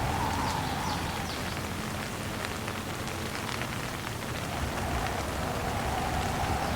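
Steady heavy rain falling, with many fine drop ticks, under a windstorm; a wavering wind howl fades out about a second in and comes back about two-thirds of the way through.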